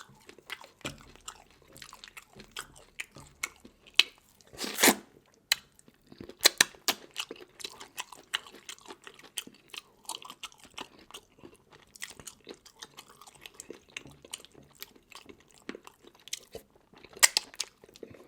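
Close-miked chewing and crunching while eating seafood, with many sharp cracks and crunches; the loudest crunch comes about five seconds in, and another near the end.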